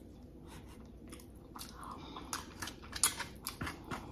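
Close-up, soft chewing of a mouthful of Chipotle rice and chicken, with scattered wet mouth clicks and smacks, the loudest about three seconds in. A plastic fork stirs and clicks in the takeout bowl.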